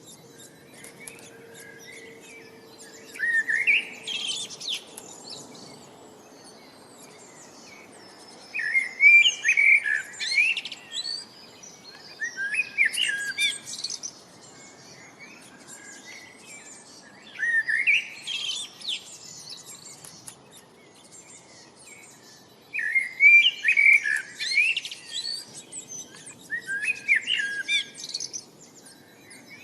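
A songbird singing short, loud, warbled phrases, one about every four or five seconds, over a faint steady background hiss.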